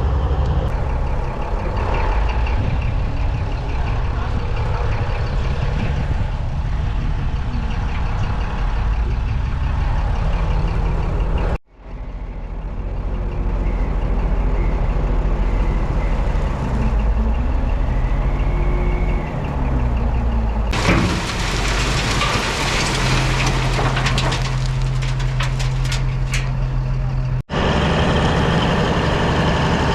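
Bulldozer's diesel engine running hard, with the sound breaking off abruptly twice. In the later stretch a steady low drone and a hiss stand out.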